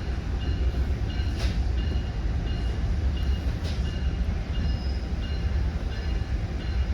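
Steady low rumble of an exo commuter train heard from inside the passenger coach, with faint short high beeps repeating through it.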